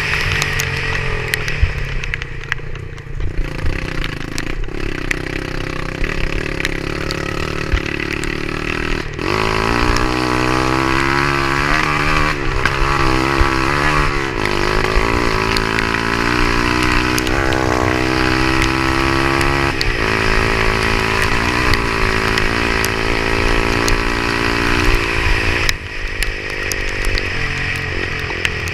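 An engine running over a steady hiss. From about nine seconds in its pitch rises and falls repeatedly, as with changing revs, then eases back near the end.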